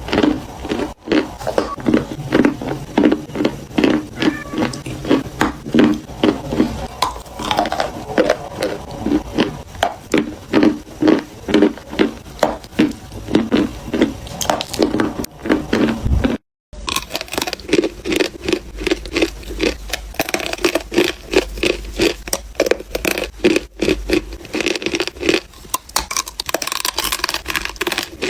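Chalk crunching and crumbling at close range, a dense run of crisp cracks and scrapes several times a second, with a brief gap about halfway through.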